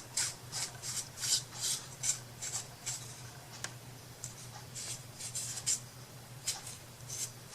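Repeated short rubbing strokes on a hard surface, about two to three a second at first and sparser in the second half, over a steady low hum.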